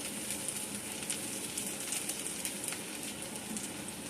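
Hot oil sizzling steadily in a frying pan, with frequent small crackles, as chopped garlic and green chili fry.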